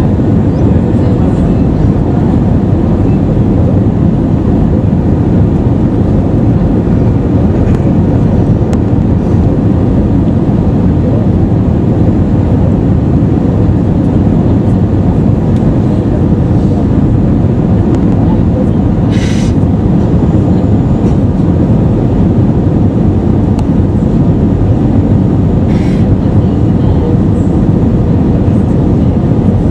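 Cabin noise of an Airbus A320-214 in flight: a steady, loud rush of airflow and engine noise with a faint steady hum. There is a short hiss a little past halfway and another near the end.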